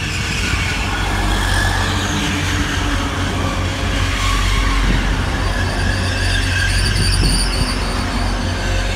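Class 180 diesel multiple unit pulling into the platform. There is a steady low rumble throughout, and a thin, high-pitched brake squeal builds in the second half as it slows.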